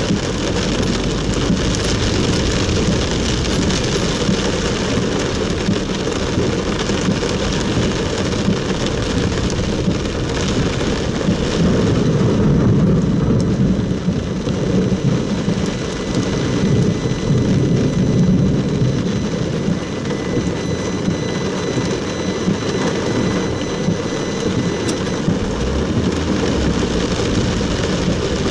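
Heavy rain pouring onto a car's roof and windscreen, heard from inside the cabin as a steady, dense noise with a deep rumble.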